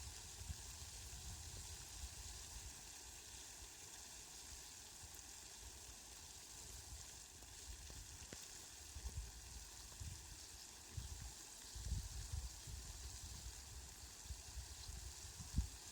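Steady hiss of falling rain, faint and even, with irregular low rumbles in the second half.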